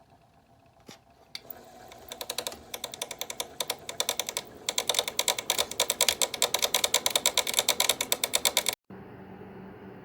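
Portable ceramic space heater making rapid, even mechanical clicking, about eight clicks a second, growing louder over several seconds and cutting off abruptly near the end. A steady fan-like hum with a low tone follows.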